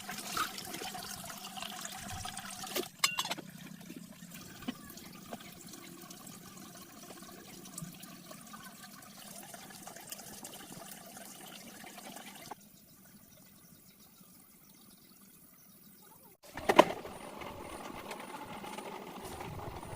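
Water running and splashing, broken by several abrupt changes, with a brief louder noise about three-quarters of the way through.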